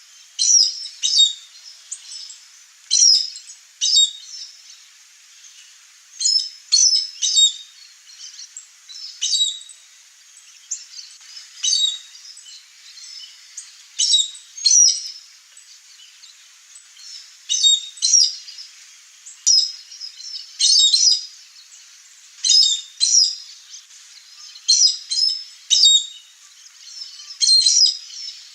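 Chestnut-eared aracari calling: short, sharp, high calls repeated every second or two, often in quick pairs or threes.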